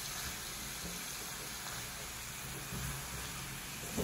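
Chopped spinach and dill frying in a pan with a steady, soft sizzle as they are stirred.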